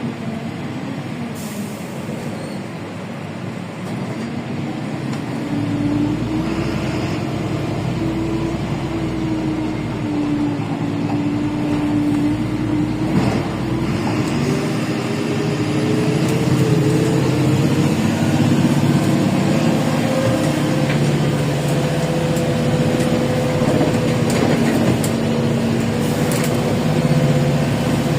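Interior ride noise of a LiAZ 5292 city bus with its Yuchai engine and Fast Gear gearbox under way: steady engine and road rumble with a drivetrain whine that climbs in pitch as the bus speeds up, about two-thirds of the way through, then holds steady.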